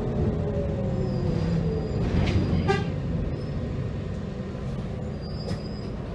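Heuliez GX327 GNV city bus's natural-gas engine running, with a faint whine falling in pitch over the first two seconds as the bus slows. A short high toot sounds about three seconds in.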